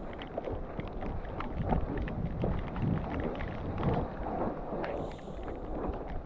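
Mountain bike descending a wet, sandy dirt trail: wind buffeting the microphone over the tyre noise, with a constant run of clicks and knocks from the bike rattling over bumps.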